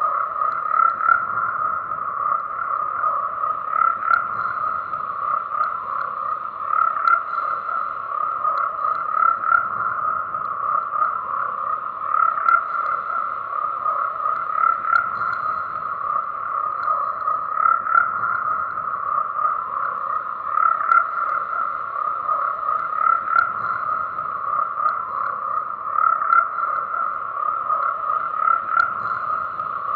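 A dense chorus of croaking frogs: many calls overlapping into a steady sound, swelling in loudness every two to three seconds.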